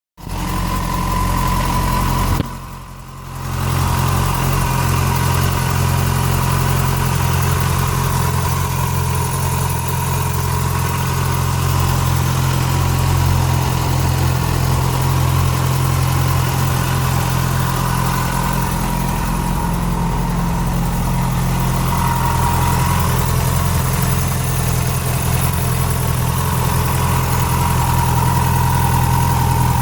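Yamaha FZ6's inline-four engine idling steadily from cold, with a strange noise that the owner cannot place and wonders whether it is valve noise or the cam chain. The sound drops away briefly about three seconds in.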